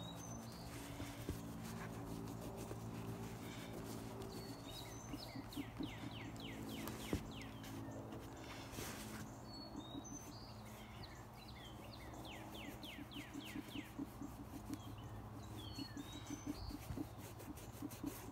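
Small birds singing: runs of quick, falling chirps, repeated in clusters, over a faint steady low hum.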